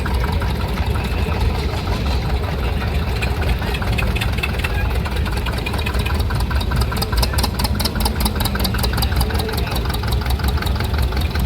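An engine running steadily, its firing heard as a fast, even pulse.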